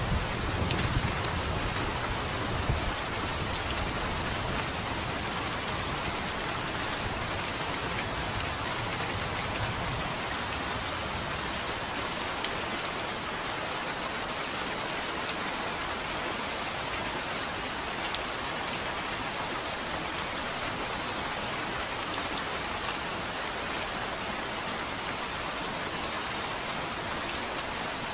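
Steady rain falling on a surface, an even hiss with scattered individual drops ticking. The last of a low thunder rumble dies away over the first few seconds.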